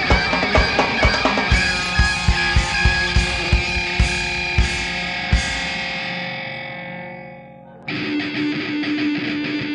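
Live rock band with distorted electric guitar over a steady drum beat. A final chord rings out and fades, and at about 8 s in the distorted guitar abruptly starts the next song.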